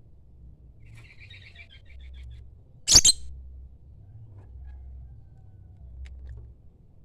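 Lovebird twittering in a quick run of short chirps, then one very brief, loud, shrill call about three seconds in.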